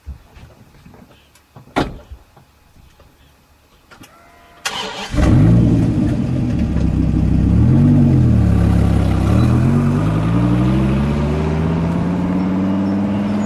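A Dodge Viper's V10 engine is cranked and fires about five seconds in, after a few sharp clicks. It revs up and back down once, then pulls away with its pitch rising steadily as it accelerates.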